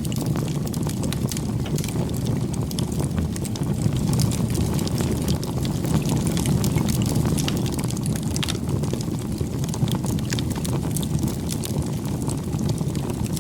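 Campfire burning: a steady low rush of flames with many small, sharp crackles and pops from the burning wood.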